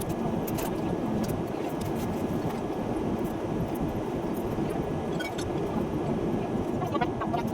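Steady rumbling noise like the inside of a moving vehicle, with faint scattered clicks.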